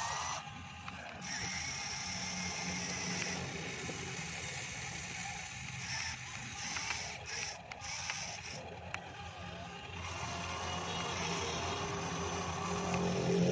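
Remote-control long-reach excavator model working: its motors whine in short on-and-off spells as the arm and bucket move through the dirt, over a steady mechanical hum and small gear clicks.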